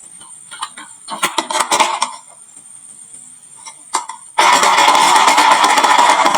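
Glass marbles clicking and clattering on a wooden marble run: a scattering of clicks early on, then from about four and a half seconds in, a dense, loud rattle of many marbles tumbling at once.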